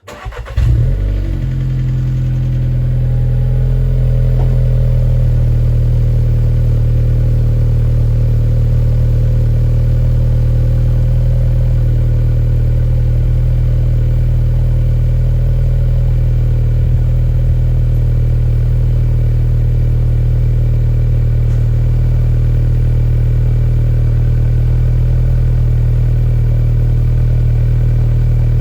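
Volkswagen Golf 7 Variant engine starting, with a brief flare in the first second, then idling steadily through an exhaust that has its main silencer removed and a modified Suzuki Swift Sport (ZC33S) centre silencer fitted.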